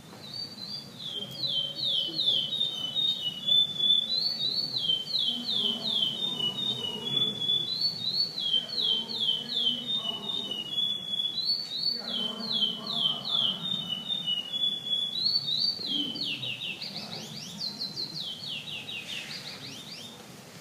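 Male chestnut-bellied seed finch (curió) singing its classic 'gravatá' song: runs of quick, clear whistled notes, each falling in pitch, in phrases that repeat about every four seconds. The last phrase, near the end, climbs higher and is more jumbled.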